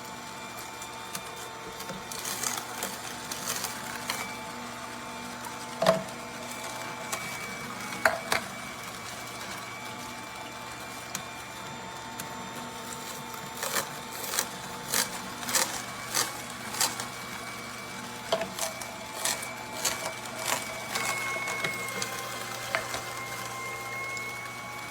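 AAOBOSI juicer's motor running with a steady hum, with sharp knocks and clicks as produce is pushed through; the clicks and knocks come more often in the second half.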